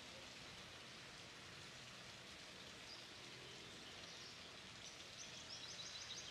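Faint outdoor ambience: a steady soft hiss, with a bird's quick trill of short high chirps, about eight a second, starting about five seconds in.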